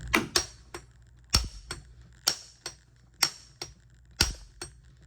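Hammer striking a steel nut on the end of a golf cart starter-generator's armature shaft, about once a second, each blow followed by a lighter rebound tap, metallic with a short ring. The blows are driving the armature shaft out of its bearing, which is slowly moving.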